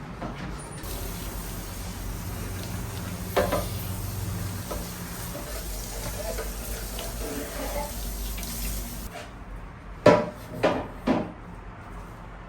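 A steady rush of water that cuts off about nine seconds in, with a knock partway through. Near the end come three sharp clattering knocks of hard dishes or utensils being handled.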